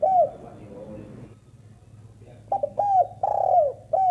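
Spotted dove cooing. One falling coo at the start, then about two and a half seconds in a phrase of short clipped notes followed by longer coos that drop in pitch at the end.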